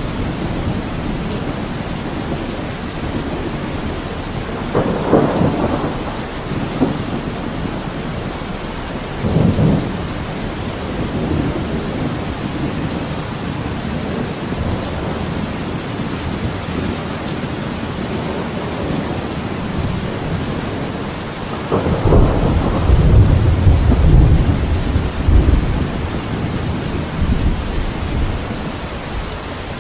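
Thunderstorm: steady heavy rain with rolls of thunder, short rumbles about 5 and 9 seconds in and a longer, louder rumble from about 22 seconds.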